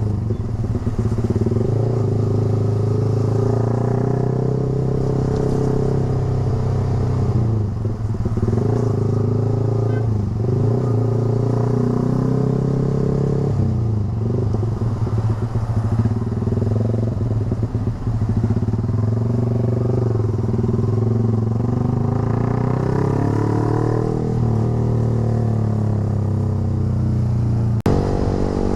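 Yamaha R15 V3's single-cylinder engine running through a short Proliner aftermarket racing exhaust, holding a mostly steady note with small shifts in revs. The revs climb about four fifths of the way through, and the sound breaks off abruptly just before the end.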